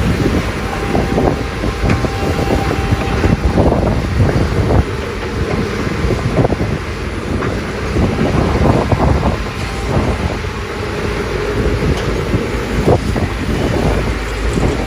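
Doosan DX300 excavator at work: a steady diesel engine rumble and hydraulics, with frequent knocks and clanks throughout.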